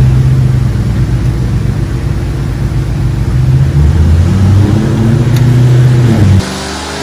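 A loud motor running with a low drone, its pitch stepping up and down, cutting off abruptly about six and a half seconds in.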